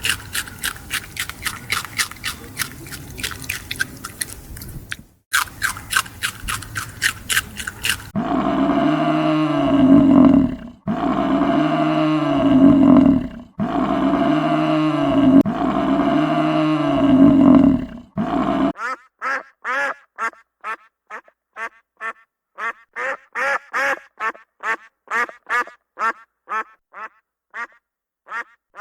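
A series of animal calls in three parts. First comes a fast run of short calls. Then four long drawn-out calls follow one after another, and after that a long run of short calls, a few a second.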